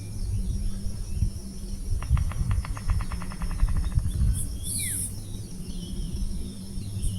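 Birds calling over a steady high insect buzz. A rapid, evenly pulsed rattle lasts about two seconds, starting about two seconds in. Short falling whistled notes follow, with a steady low hum underneath.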